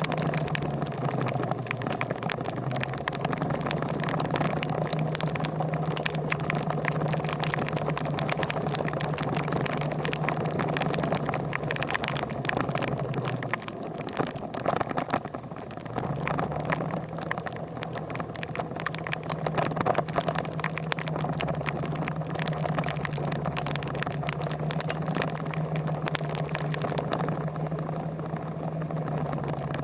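Motorcycle engine running steadily under a constant crackle of rattling noise. Its steady hum drops away for a couple of seconds about halfway through, then comes back.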